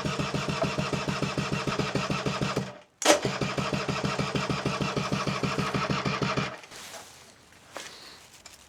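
Electric starter cranking the Honda Vision NH80's 80cc engine in two bursts of a few seconds each, the second starting with a sharp click; the engine turns over at an even, fast beat but does not catch.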